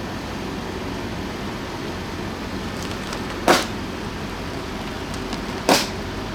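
Car running slowly with a steady low rumble, broken twice by a short, sharp crack about two seconds apart as something brittle breaks under a tyre.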